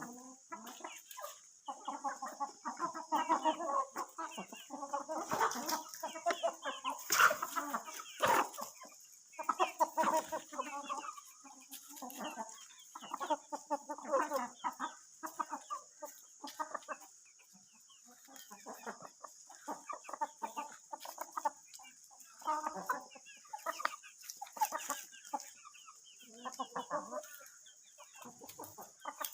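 A flock of chickens clucking and chattering in many short, overlapping calls, with brief lulls. A couple of sharp knocks come about seven and eight seconds in.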